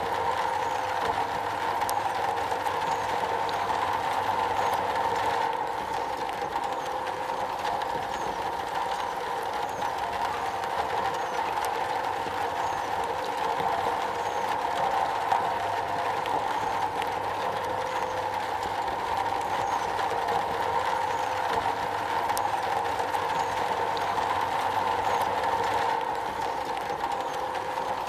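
Steady rain falling on a metal roof: a dense, even patter with no let-up.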